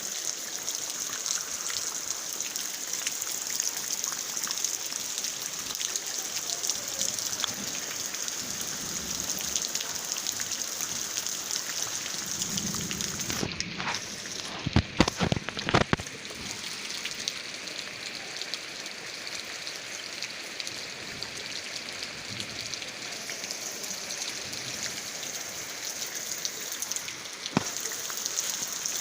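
Steady rain falling, with a few sharp knocks about halfway through and one more near the end.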